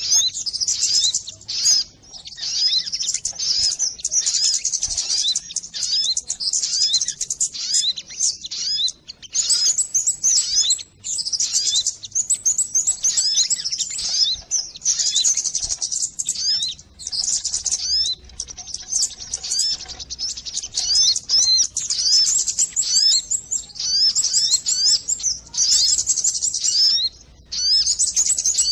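Recorded lure call of the sogon bird: dense, rapid, high-pitched chirping, many short call notes overlapping in quick runs with brief gaps between them.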